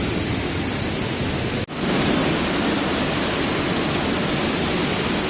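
Waterfall swollen by heavy rain, heard up close: a loud, steady rushing of falling water. It breaks off for an instant about a second and a half in and comes back slightly louder.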